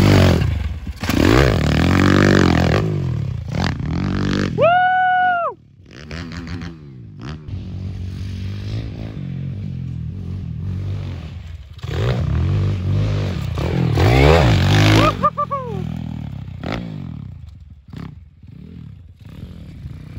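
Pit bike engine revving up and down as the bike rides the dirt track, loudest at the start and again about twelve to fifteen seconds in. A short, high, arched tone sounds about five seconds in.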